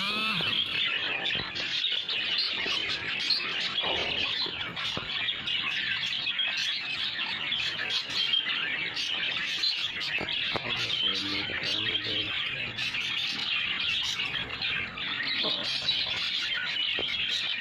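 A flock of budgerigars chattering and chirping continuously, a dense overlapping warble of many small calls.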